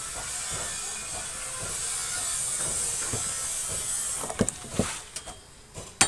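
Steady high hiss from smithing work that fades about four seconds in, followed by a few sharp metal knocks near the end.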